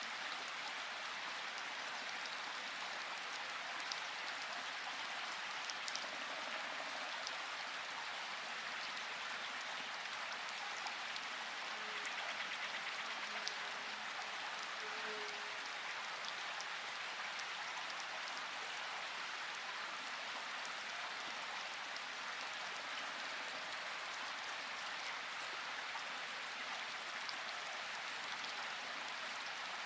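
Steady, even hiss of a brown-noise track, a little like rain, with a few faint clicks about 4, 6 and 12 seconds in.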